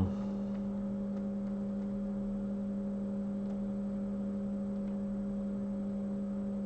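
Steady electrical hum: one low droning tone with fainter, higher steady tones above it, unchanging in pitch and level.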